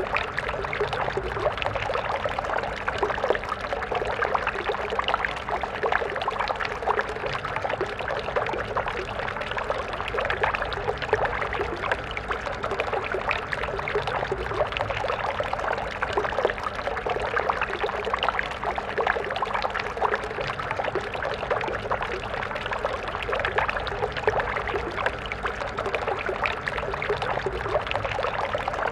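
A stream of water flowing steadily, with continuous splashing and gurgling over stones.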